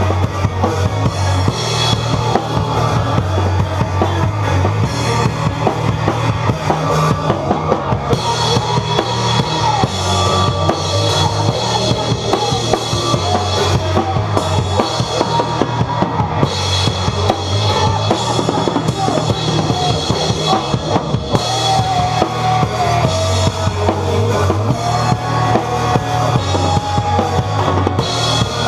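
Rock music: a band's song with a steady drum-kit beat and bass drum under a melodic line.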